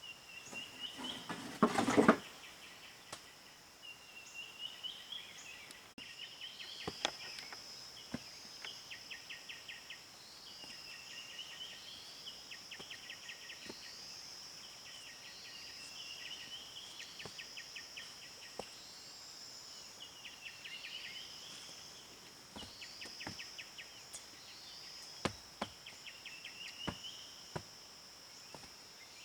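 Outdoor ambience: a steady high insect drone with a chirping call repeating every second or two. Scattered sharp knocks are heard throughout, and there is a brief loud noise about two seconds in.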